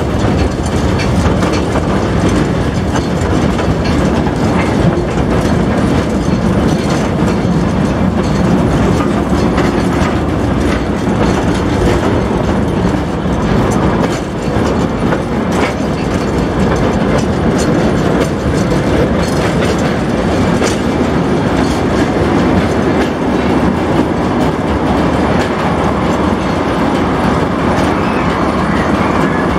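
Narrow-gauge Rheinbähnle field-railway train running, heard from on board: a steady running noise with the wheels clicking and clattering over the track.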